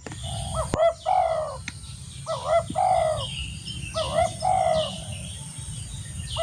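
Spotted dove cooing: three phrases about 1.7 s apart, each two short notes followed by a longer drawn-out coo. Other small birds chirp higher and more thinly in the background.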